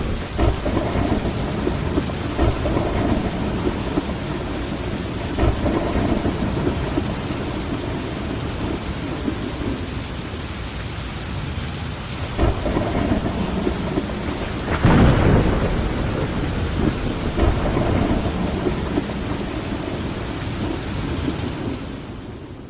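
Steady rain on window glass with rolling thunder: low rumbles swell and ebb several times, the loudest about two-thirds of the way through. The whole sound begins to fade out near the end.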